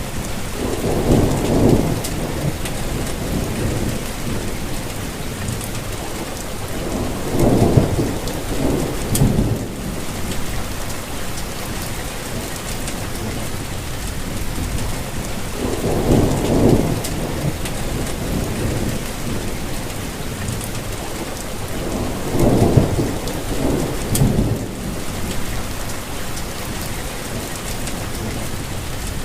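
Steady rainfall hissing, with low rolls of thunder swelling and fading away four times.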